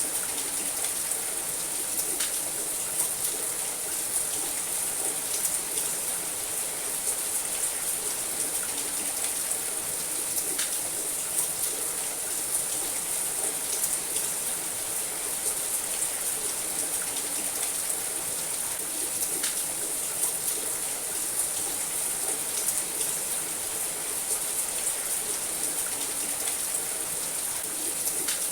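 Steady rain falling on a house roof, an even hiss with scattered individual drops ticking.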